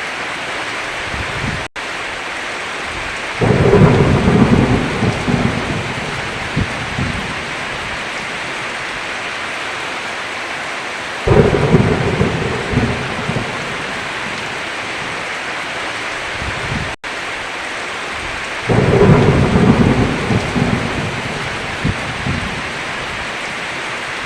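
Heavy rain falling steadily on a roof, with three rolls of thunder a few seconds long, each swelling in and rumbling away. The sound drops out for an instant twice, once before the first roll and once between the second and third.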